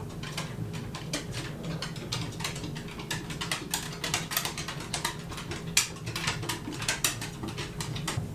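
Dense, irregular small clicks and taps of watchmaker's tools on small metal watch parts, over a steady low hum.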